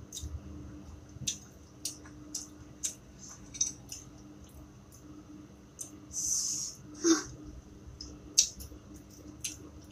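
A person chewing crunchy fried food in spicy sambal, eaten by hand: scattered small crunches and mouth clicks, with a short hiss of breath about six seconds in.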